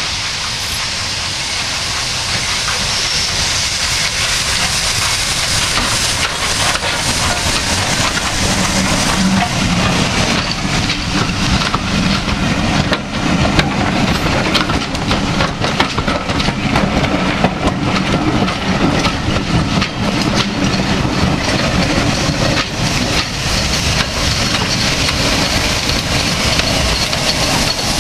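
Steam locomotive hissing steam, with rapid irregular clattering through the middle that fits a train's wheels and couplings in motion.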